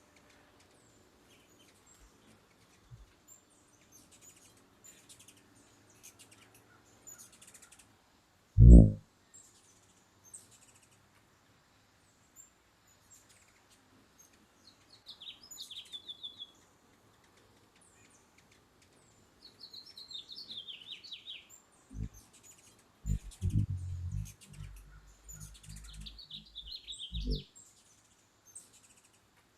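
Small birds chirping: short high chips throughout, and three descending trilled calls, about halfway through, about two-thirds through, and near the end. A loud low thump about a third of the way in, and a run of low thumps and rumbling in the last third.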